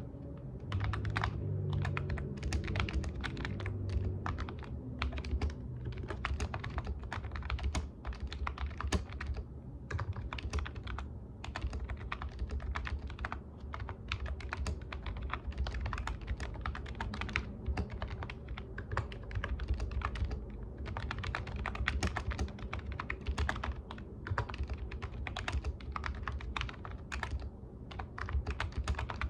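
Computer keyboard typing: rapid, irregular key clicks in quick runs with a few short pauses.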